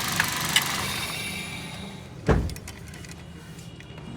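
Toyota Corolla Altis engine running down to a stop after being switched off. Then a single heavy thump about two seconds in, followed by a few light clicks and jingles.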